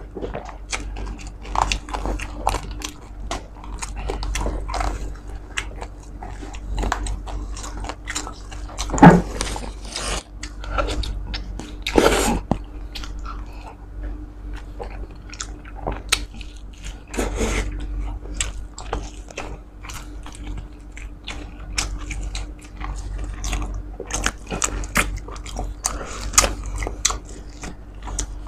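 Close-miked chewing and biting of a man eating roast suckling pig with his hands: many short wet smacks and clicks, loudest about nine seconds in and again near twelve seconds.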